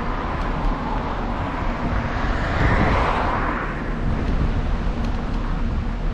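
Wind rumbling on the microphone of a moving bicycle, with a vehicle swelling up and passing about three seconds in, then fading away.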